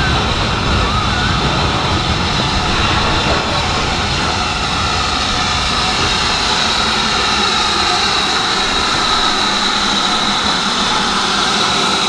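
Steady rushing noise of a moving train, with a thin high tone held above it.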